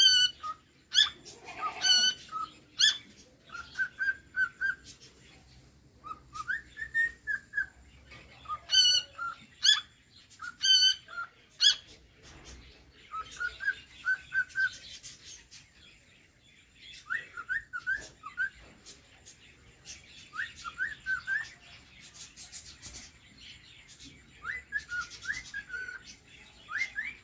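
Cockatiel whistling its song: phrases of short, repeated whistled notes with pauses between them, and quick rising notes in the second half.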